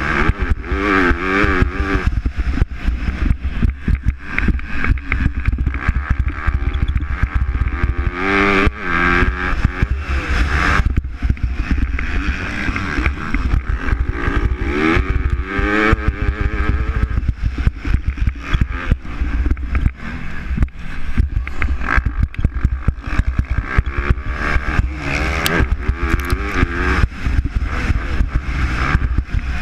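MX2-class motocross bikes racing, engines revving up and down as riders pass, with bursts about a second in, near eight seconds, around fifteen seconds and again near the end, over a continuous low rumble.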